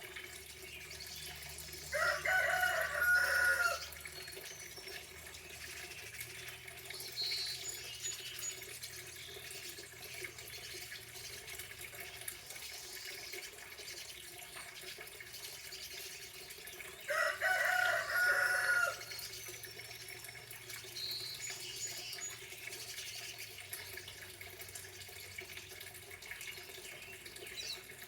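A rooster crows twice, about fifteen seconds apart, over a steady sound of running water. Faint chirps of small birds come in between the crows.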